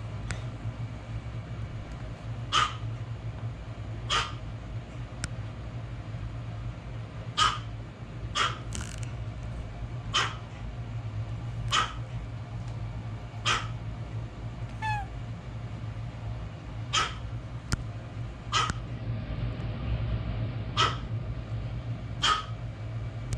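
A cat meowing in short, sharp calls, about a dozen of them, one every one to two seconds, over a steady low hum.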